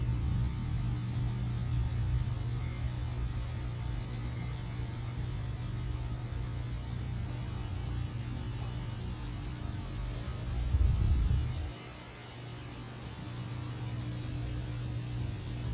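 A steady low hum, swelling briefly louder about eleven seconds in.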